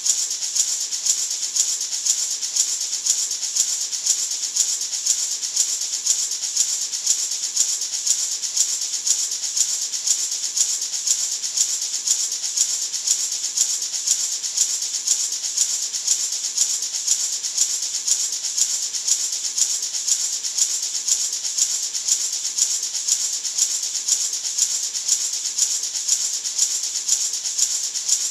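Gourd maraca (natural hand shaker made from a gourd) shaken in a steady, even rhythm, a continuous bright rattling hiss of seeds.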